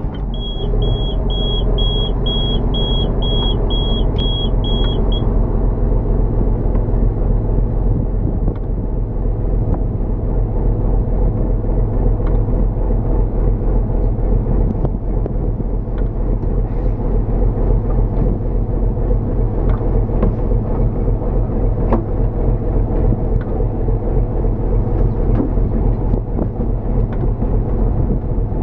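Inboard engine of a small fishing boat running steadily just after starting, with a warning alarm beeping about twice a second for the first five seconds before it stops.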